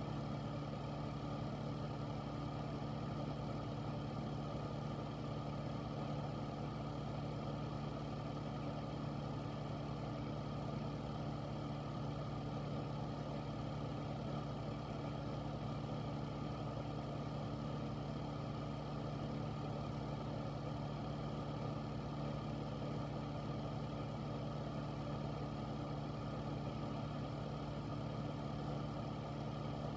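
Air filter running steadily: an even rush of air over a low, constant hum.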